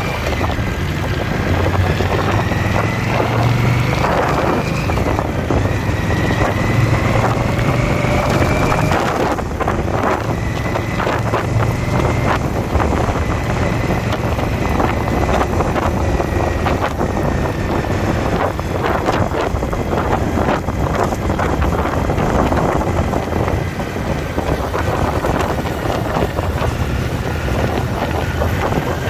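Indian motorcycle's V-twin engine running under way on the road, its pitch drifting slowly up and down with the throttle, with wind rushing over the microphone.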